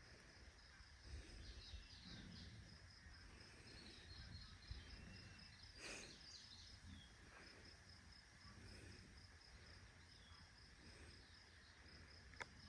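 Near silence: faint outdoor ambience with a steady, evenly pulsing high chirp like an insect, a few faint bird chirps and a low rumble of wind.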